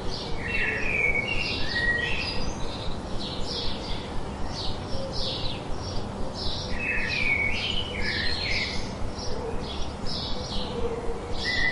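Birds chirping: a dense run of short, high chirps, several a second, overlapping without pause.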